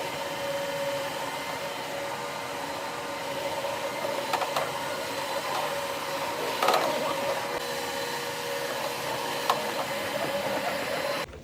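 Counter-rotating brush (CRB) carpet machine running steadily over a rug, its motor and brushes giving a steady hum with a few light knocks. It shuts off just before the end.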